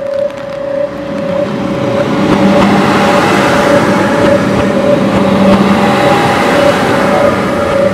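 Aizu Railway diesel railcar running past close by, the rumble of its engine and wheels building from about two seconds in and staying loud. A steady, pulsing high tone sounds throughout.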